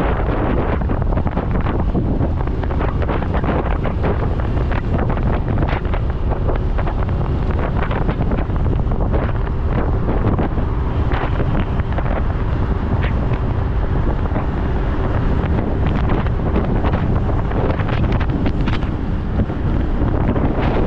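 Steady wind noise buffeting the microphone of a moving motorcycle, with the bike's engine and road noise underneath.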